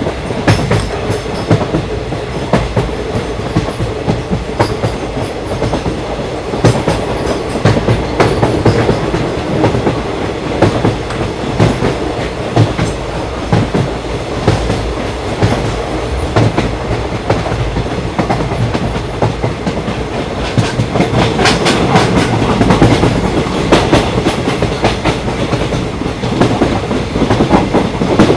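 Train in motion: steady rolling rumble with a constant hum, and the wheels clicking over rail joints throughout, the clicks busier in the last few seconds.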